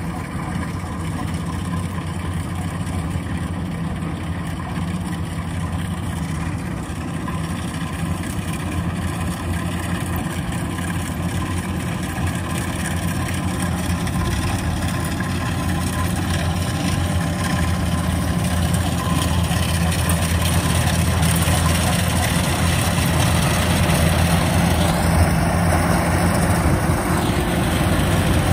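Diesel engine of a rice combine harvester running steadily, growing gradually louder as it comes closer.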